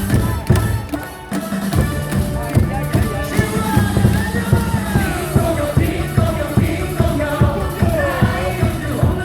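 Ballpark cheer song playing loud over the stadium sound system, with a steady drum beat and a sung melody.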